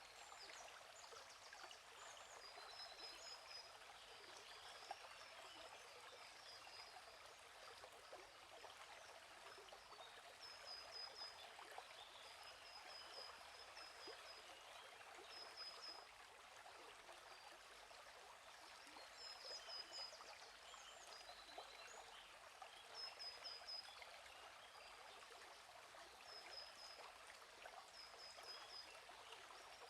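Gently flowing stream, a steady soft rush of water, with small birds chirping in short, high, repeated notes throughout.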